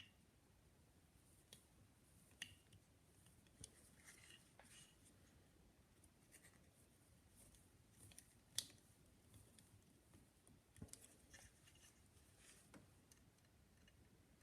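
Near silence broken by faint, scattered small clicks and scrapes of a screwdriver on the little screws of a phonograph reproducer as they are snugged down; the strongest click comes about two thirds of the way through.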